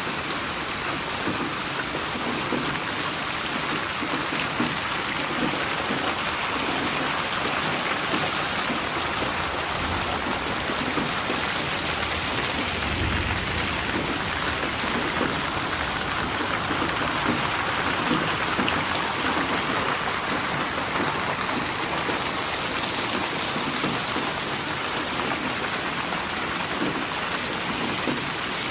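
Steady rain falling, a dense even hiss at a constant level, with a brief low rumble about thirteen seconds in.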